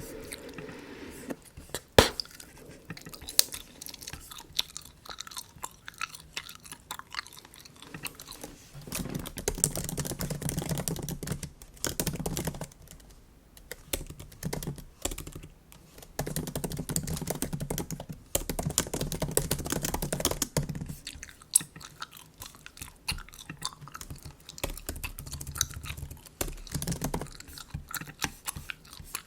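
Bubble gum being chewed close to the microphone, louder in several stretches of a few seconds each, over scattered clicks of MacBook keyboard keys.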